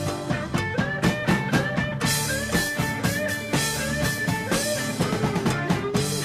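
Rock music with a steady drum beat and guitar, the lead line bending up into notes again and again.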